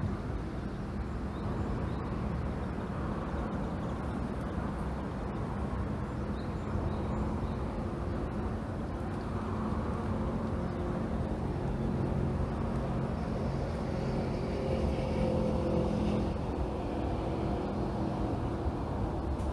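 Steady low engine rumble with a low hum, growing a little louder in the second half.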